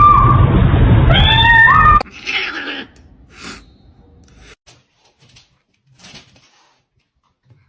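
A domestic cat meowing loudly in drawn-out yowls, the last one rising in pitch and cutting off about two seconds in. Then come a few faint short rustles and clicks.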